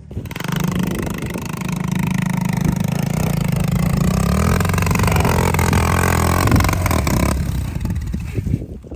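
Kawasaki KX100 two-stroke dirt bike engine revving hard under load, its pitch rising and falling as the throttle is worked. It starts abruptly and eases off near the end.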